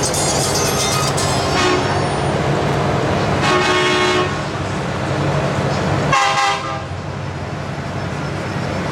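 Three vehicle horn blasts, a short one about two seconds in, a longer one near four seconds and another near six seconds, over the steady low rumble of running truck engines.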